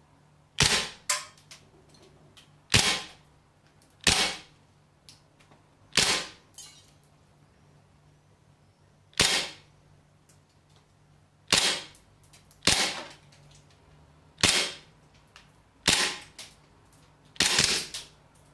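WE G-Force 17 airsoft gas blowback pistol firing single shots, about a dozen sharp cracks spaced one to three seconds apart, some followed by a fainter click.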